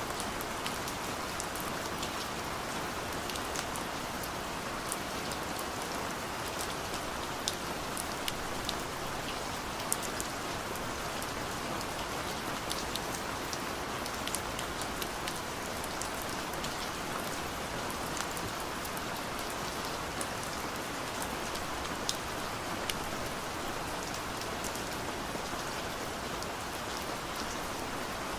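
Steady rain falling on a car's roof and windows, heard from inside the cabin: a dense, even hiss with many scattered sharp ticks of individual drops.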